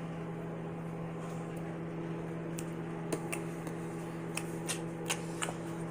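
Microwave oven running with a steady hum while the macaroni cooks, with a few faint clicks and ticks.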